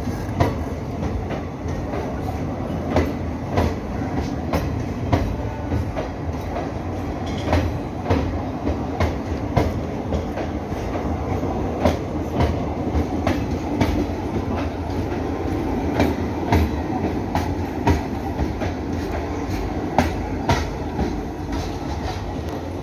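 Train wheels rolling over the track in a steady rhythm of sharp clacks at the rail joints, above a continuous low rumble.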